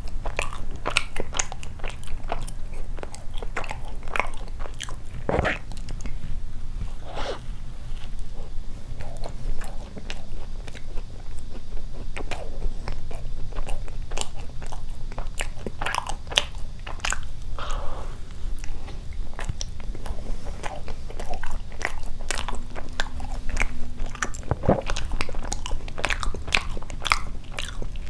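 Close-miked chewing and biting of a soft, cream-topped filled doughnut, with many short, wet mouth clicks. A steady low hum runs underneath.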